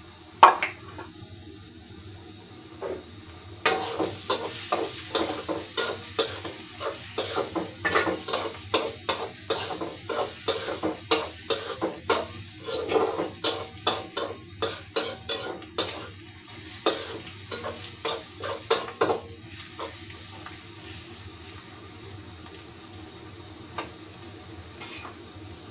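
A utensil scraping and knocking against a frying pan, several strokes a second, as chopped eggplant and onions are stirred while they fry in oil. The stirring stops about three quarters of the way through, leaving a steady low sizzle.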